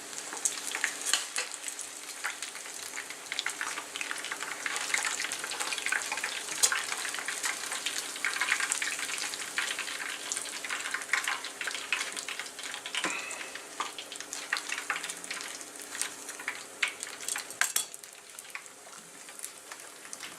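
Chicken pieces frying in hot oil: a steady sizzle with frequent sharp crackles and pops, easing a little near the end.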